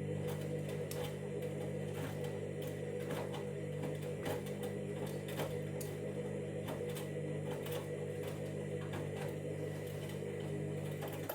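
Candy Grand'O Vita washing machine's drum motor running with a steady hum and frequent irregular clicks, as the machine weighs the load during its KG detector sensing. The sound cuts off suddenly at the end.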